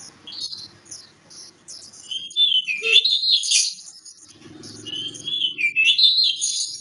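Oriental magpie-robin (kacer) singing: two loud phrases of rapid, warbling whistles that slide up and down, the first starting about two seconds in and the second following after a short pause.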